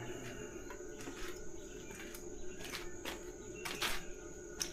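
Faint bird chirps over a steady low background hum, with a few short, light clicks, the sharpest near the end.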